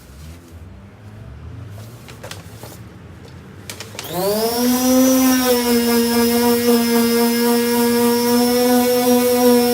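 A few handling clicks and knocks, then about four seconds in a power sander with a sanding disc switches on: its motor whines up in pitch within half a second and then runs loud at a steady speed.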